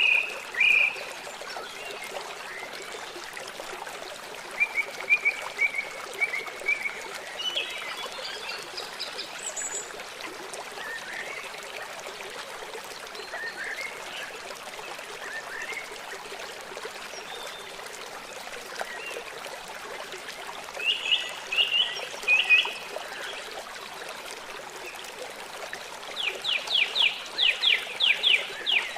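Steady trickle of running stream water with wild birds singing over it: scattered short chirps, a cluster of bright chirps about three quarters through, and a fast run of about a dozen quick notes near the end.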